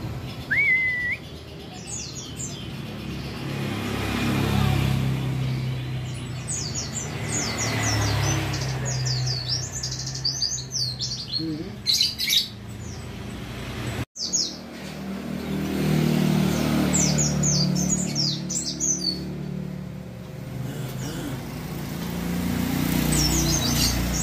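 White-eyes (pleci) singing in quick runs of high, thin, falling chirps, in several bursts with short pauses between, over a low steady traffic rumble.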